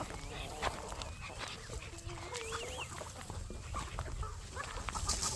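A flock of chickens making scattered short calls and clucks, with small clicks among them.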